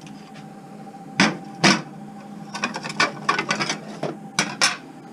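Knocks and clatter: two loud sharp knocks about half a second apart, then a run of quicker rattling knocks, over a faint steady hum.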